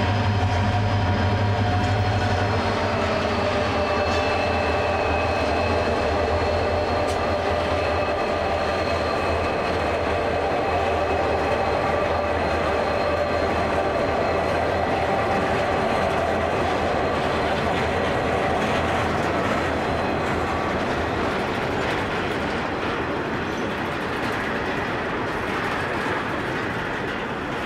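Three diesel-electric freight locomotives droning past for the first few seconds, their low engine hum fading. Then a long rake of grain hopper wagons rolls by steadily, the wheels rumbling and clattering on the rails under thin, steady high-pitched ringing tones.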